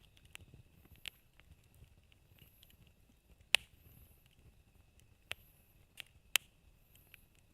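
Wood burning in a campfire, crackling with irregular sharp pops, the loudest about halfway through and a quick cluster of pops near the end.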